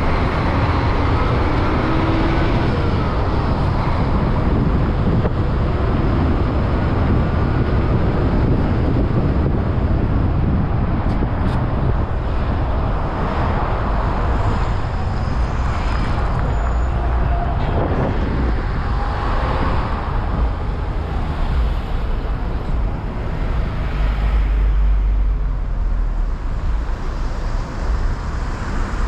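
Road traffic noise: a steady rumble of cars and heavier vehicles moving over the bridge, with no single event standing out.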